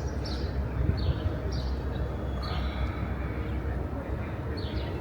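A bird calling repeatedly with short, high, falling chirps, about five of them, over a steady low rumble of street and wind noise.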